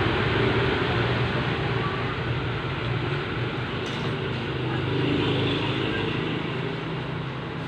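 Steady motor-vehicle noise, a low humming rumble, easing slightly near the end.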